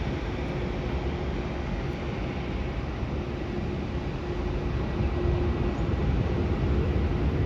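Airliner jet engines running at a distance: a steady rumble with a faint steady hum, growing a little louder in the second half.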